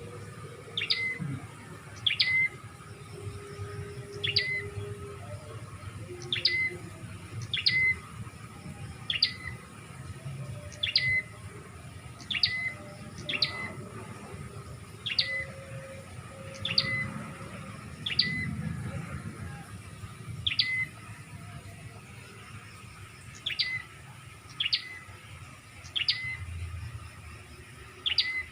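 Prenjak (prinia) call repeated as a bird lure: a short, sharp high note sweeping quickly downward, about every second or two, over a faint low background rumble.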